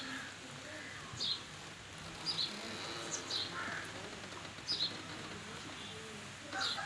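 Birds chirping in the open air: a short, high chirp that slides downward, repeated about once a second, over a faint background murmur.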